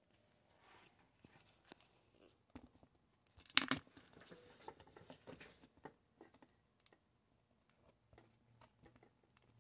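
Handling noises: scattered light clicks and crinkling, with a louder crinkling rustle about three and a half seconds in.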